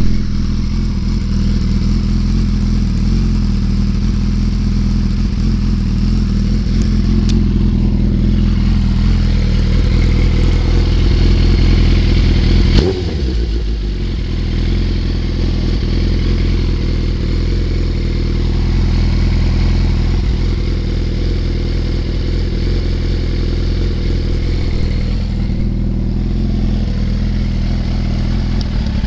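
Suzuki Hayabusa inline-four running through an aftermarket Dapinnci exhaust, holding a steady idle. The note swells for a few seconds, ends in a sharp crack about thirteen seconds in, then settles back to a steady idle.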